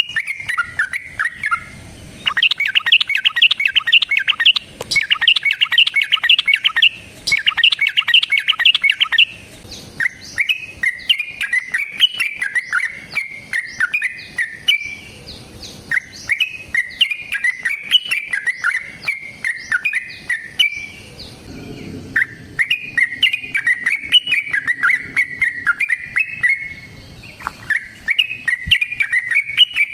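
Yellow-vented bulbul (trucukan) in full song: first about seven seconds of fast, dense chattering notes, then repeated runs of quick rising and falling notes broken by short pauses. This is the long rapid 'ropel' fighting song.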